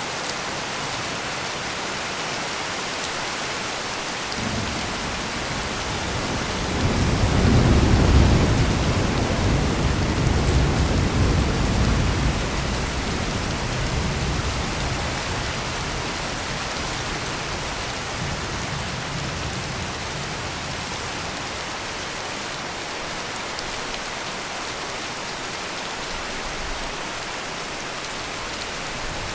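Heavy rain falling steadily, with a roll of thunder that starts about four seconds in, is loudest around eight seconds, and rumbles away over the next several seconds.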